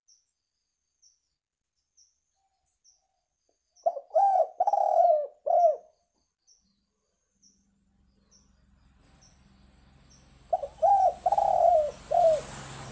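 Spotted dove (tekukur) cooing: two phrases of about four short, falling coos each, some six seconds apart, with faint high chirps ticking between them. A low hum and hiss build up over the second half.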